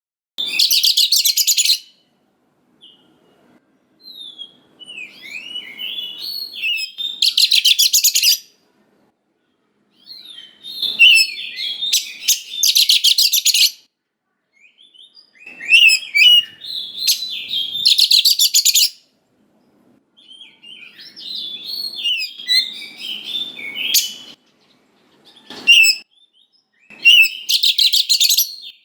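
Oriental magpie-robin (kacer) in full song: about seven phrases a second or two apart. Each phrase is a run of varied whistled notes that ends in a loud, fast, harsh rattling burst.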